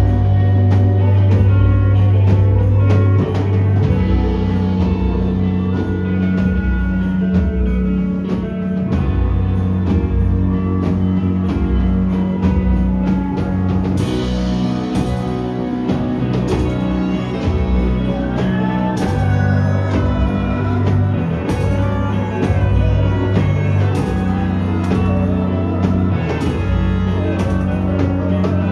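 Rock band playing live: guitar over held bass notes, with a drum kit keeping time.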